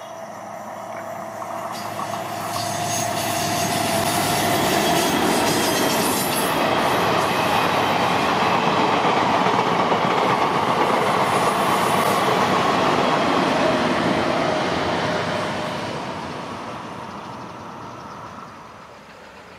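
A diesel train passing by on the track: the rumble and wheel clatter build over the first few seconds, hold loud for about ten seconds, then fade away.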